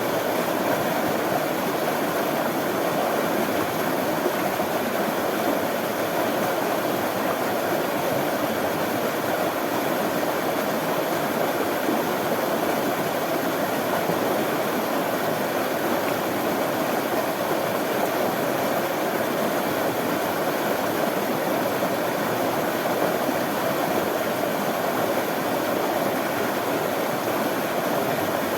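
Running water: a steady, unbroken rush.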